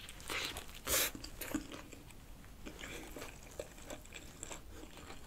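A person chewing a mouthful of chicken-breast burger, with a few short bursts of chewing noise, the strongest about a second in, thinning to faint small mouth and handling clicks.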